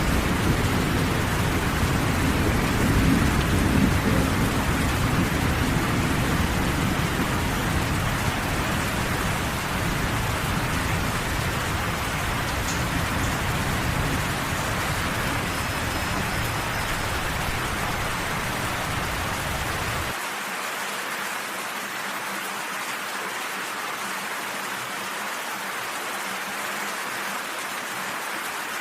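Steady heavy rain falling, with a deep low rumble beneath it that is strongest in the first few seconds and cuts off suddenly about two-thirds of the way through.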